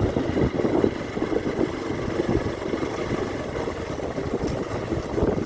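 Motorcycle engine running steadily on the move, with a rough, uneven low rumble.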